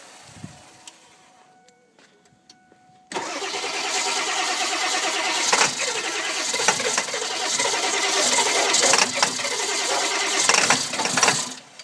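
Starter cranking a 1999 Ford 7.3 Powerstroke turbodiesel V8 for about eight seconds without it catching. The cranking starts suddenly about three seconds in and cuts off just before the end. This is a hard start caused by a bad glow plug relay.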